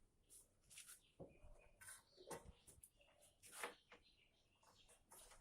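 Faint, scattered clicks and scrapes of metal as nuts are undone on a gas stove.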